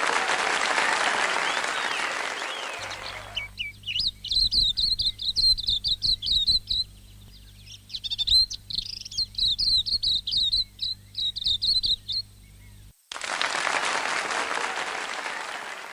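Applause, then a songbird singing two runs of quick, high, repeated notes with a short pause between them, then applause again.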